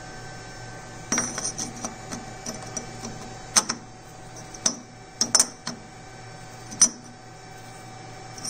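Sharp metallic clinks and taps, the sound of small metal parts or tools being handled and set down, irregular and a second or so apart, over a faint steady hum.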